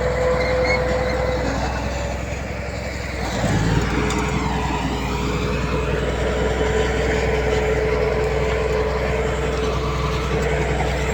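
Heavy diesel earthmoving machinery running steadily, with a steady whine held over the engine noise. The sound dips briefly and then swells again about three and a half seconds in.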